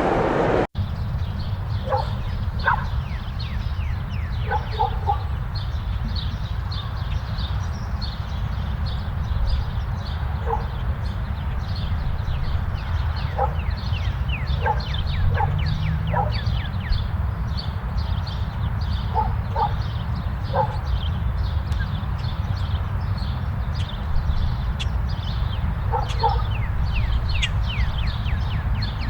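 Dogs barking in short calls every second or two, over a steady low rumble, with many quick high chirps throughout.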